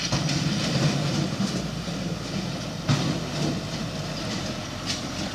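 Dump truck running, with a steady mechanical rattle and clatter and a sharp knock about three seconds in.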